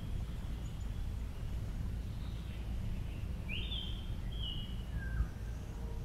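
Outdoor ambience with a steady low rumble, and a bird giving three short whistled notes a little past the middle: a rising note, a level one, then a lower falling one.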